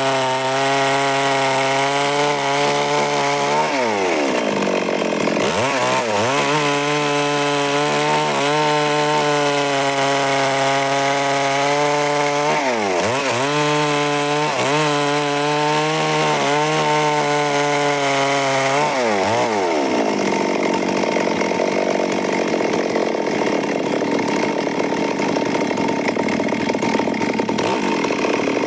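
Stihl MS 382 two-stroke chainsaw cutting wood. Its engine note dips sharply and recovers several times, then from about two-thirds of the way through it runs on as a steadier, rougher sawing noise.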